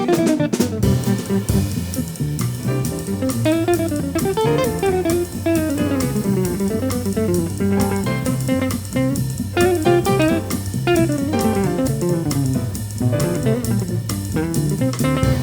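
Instrumental break of a jazz combo: a guitar solo of runs of notes rising and falling, over bass and drum kit.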